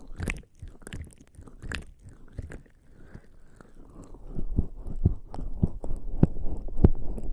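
Bare skin slick with lubricating jelly rubbing and pressing against a binaural microphone's ears, giving wet, squelching strokes close on the microphone. The strokes are sparse at first, then come faster and louder about four seconds in.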